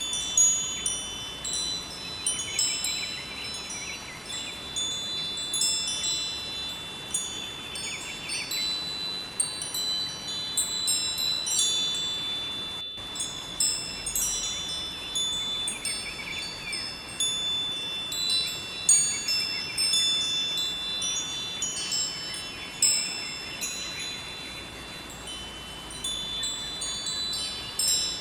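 Metal wind chimes ringing on and on, many high bell-like tones struck irregularly and overlapping, over a faint steady rush of flowing river water.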